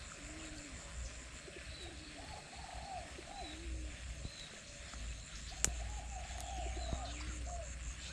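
Outdoor animal chorus: many short, arched, cooing calls repeating and overlapping, over a steady pulsing high tone. A single sharp click comes just past halfway.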